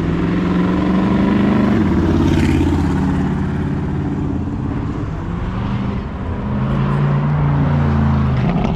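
Car engines running as cars drive past, swelling loudest about two seconds in and again near the end.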